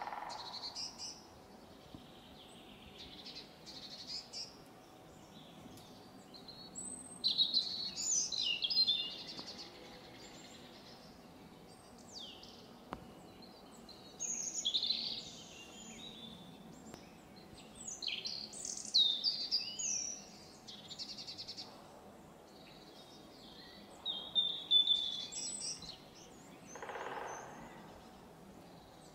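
Wild songbirds singing and chirping in short high phrases that come in bursts every few seconds, over a faint steady outdoor background.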